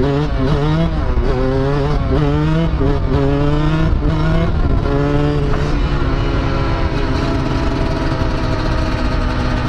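Two-stroke dirt bike engine revving up and dropping back several times, then running at a steady pitch from about six seconds in.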